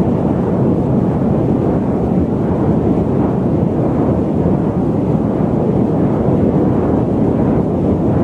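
Loud, steady static noise: a dark, rumbling hiss weighted toward the low end, without change.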